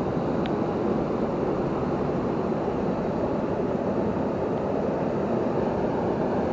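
Waterfall rushing: a steady, unchanging noise of falling water.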